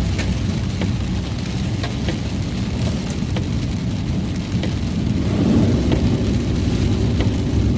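Rain pattering with scattered sharp drop ticks over a steady low rumble, which swells a little about five seconds in.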